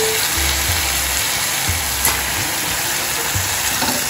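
Flat beans and grated coconut sizzling in an iron kadai while a spoon stirs them, with background music carrying a soft low beat underneath.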